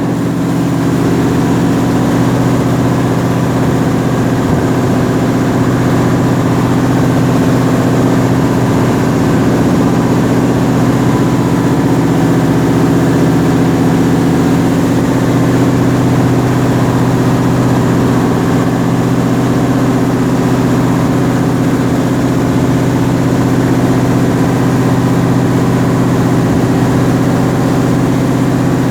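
Canal boat's engine running steadily at constant speed, a loud, even hum that does not change.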